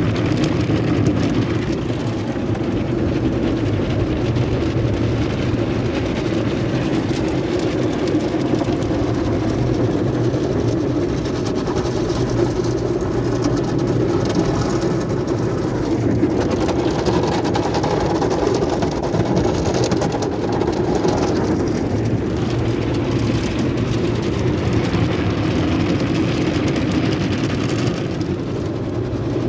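Sonny's automatic tunnel car wash equipment running: a loud, steady rumbling wash of machinery and water noise that shifts in texture partway through.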